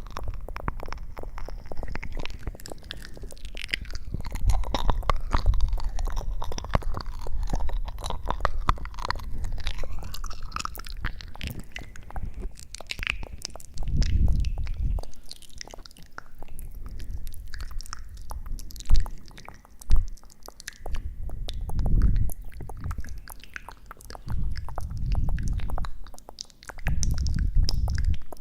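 Close-miked ASMR trigger sounds: dense small crackles and clicks, with bursts of low muffled rumble every few seconds in the second half.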